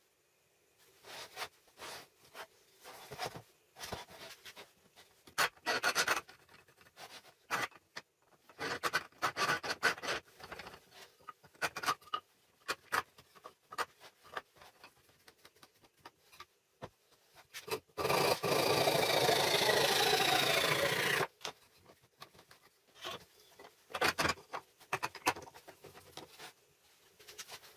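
Knocks, clicks and rubbing of a wooden vise's parts being worked by hand. About two-thirds of the way through, a power tool's motor runs for about three seconds, its pitch falling before it cuts off; this is the loudest sound.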